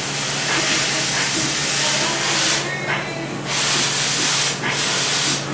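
A pressurised jet hissing loudly in three long bursts, the first about two and a half seconds, the last two shorter and close together, over a steady low hum.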